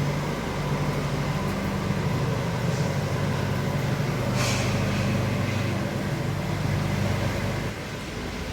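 A vehicle engine running steadily with a low hum, and a brief hiss about four seconds in.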